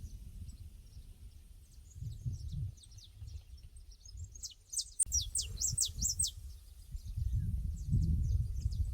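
Small birds calling in a pasture: short, high, falling chirps, with a quick run of louder ones about halfway through. Under them, a low rumble that rises and falls in gusts and swells near the end.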